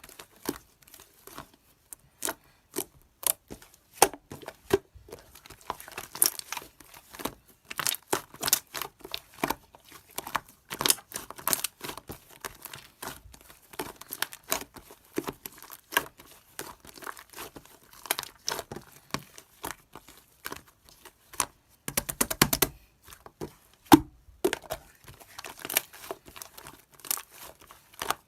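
Clear slime being kneaded and stretched by hand: irregular sticky clicks and pops, with a quick rattle of clicks about three-quarters of the way through.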